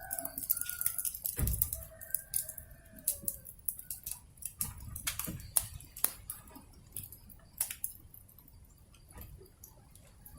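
Wood fire crackling with scattered sharp pops, and a rooster crowing during the first three seconds.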